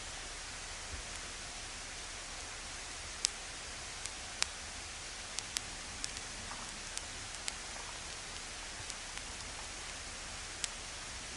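Wood campfire crackling: scattered sharp pops at irregular moments over a steady hiss.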